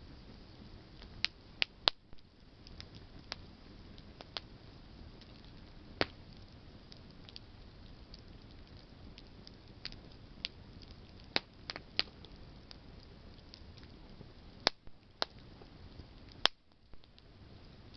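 Campfire of burning branches crackling: a steady low rustle of flames with irregular sharp pops and snaps, a few of them loud.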